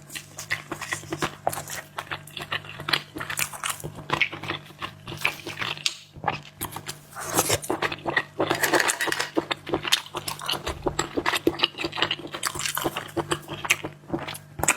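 A person eating seafood close to the microphone: a dense, continuous run of wet clicks, smacks and crunches from biting and chewing.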